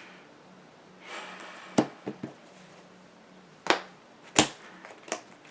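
Trading cards being handled on a table: a short rustle, then a few sharp separate taps and clicks as cards are set down and moved.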